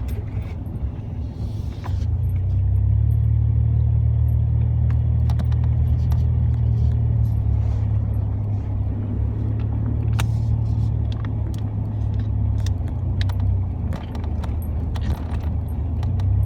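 Truck cab on the move: steady low engine and road drone that grows louder about two seconds in, with scattered light rattles and clicks from loose things in the cab.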